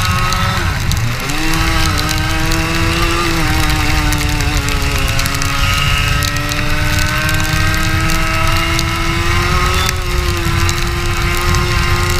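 Racing kart engine heard onboard. Its pitch drops sharply about a second in as the throttle is lifted, then picks up again and sags slowly before rising once more near the end, over a steady low rumble.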